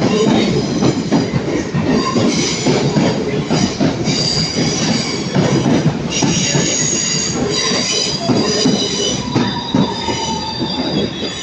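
A pair of Class 323 electric multiple units running along the platform, their wheels squealing in high, wavering tones that come and go over a steady rumble and clatter of wheels on rail.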